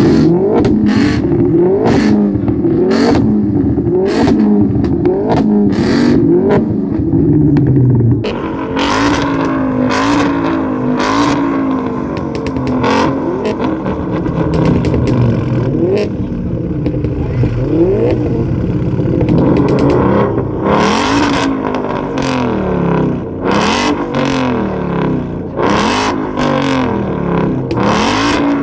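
Modified car engines being revved over and over, each rev rising and falling in pitch, with sharp cracks between revs. The sound changes abruptly about 8 seconds in.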